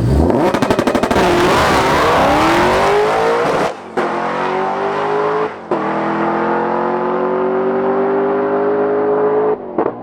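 Drag race car accelerating hard down the strip, its engine note climbing steadily in pitch and dropping back at each of three gear changes, about 4, 5.5 and 9.5 seconds in.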